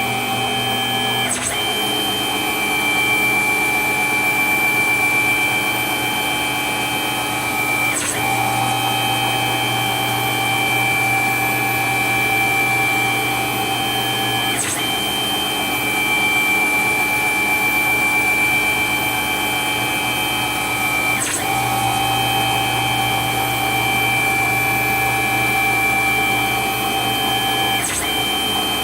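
Tormach 15L Slant-Pro CNC lathe running its warmup cycle, bringing the spindle up to temperature. A steady machine whine of several tones, broken five times, about every six and a half seconds, by a brief change in the sound.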